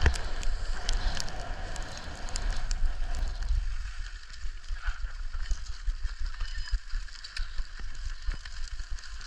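Wind buffeting the microphone, strongest for the first three or four seconds and then easing off, with scattered small clicks and scrapes.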